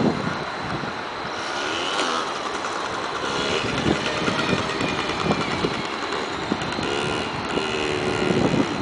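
Motocross motorcycle engines running and revving, their pitch rising and falling, with wind buffeting the microphone.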